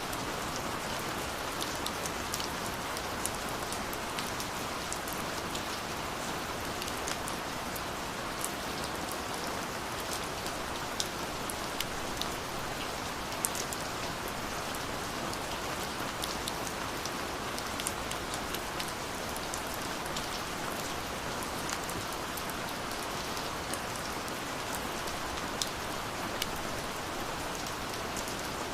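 Steady rain falling, a constant hiss with scattered sharp drip and drop ticks throughout.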